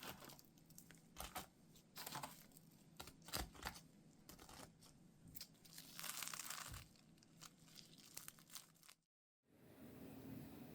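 Faint crinkling and tearing, like packaging being handled, with many small clicks and knocks. The sound cuts out completely for a moment near the end.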